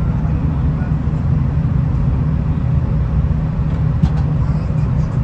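Steady low rumble of a V/Line VLocity diesel railcar under way, heard from inside: engine and wheels on the track. A couple of faint clicks come about four seconds in.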